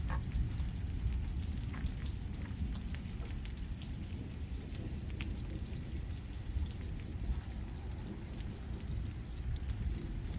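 Rain pattering and dripping in scattered ticks, over a steady low rumble and a thin, steady high-pitched tone.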